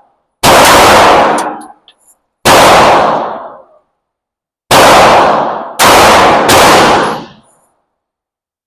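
Five 9mm pistol shots from a Glock 45 MOS, each with a long echo in an indoor range. The first three are about two seconds apart, the last two come in quicker succession. A few faint clinks follow the first shot.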